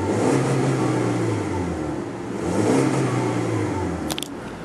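2015 Volkswagen Jetta 2.0S's 2-liter eight-valve four-cylinder engine revved twice in park, climbing and falling back each time: the typical VW 2-liter engine note. A short click comes near the end.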